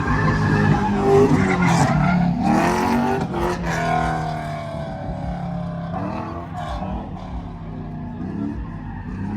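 Honda-powered race car engine revving, its pitch rising and falling over the first few seconds, then running steadier and a little quieter.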